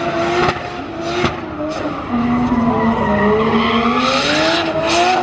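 Drift car's engine held at high revs with the tyres screeching in a slide. The revs drop about two seconds in, then climb steadily back up.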